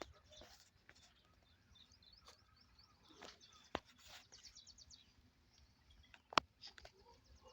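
Quiet outdoor ambience with small birds chirping, including a quick trill of rapidly repeated high notes about four seconds in. Two sharp clicks stand out: a small one and a louder one a few seconds later.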